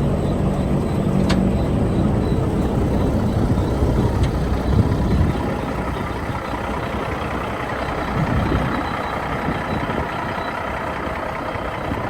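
Peterbilt 377 truck's diesel engine running steadily, a little louder for the first five seconds and then quieter.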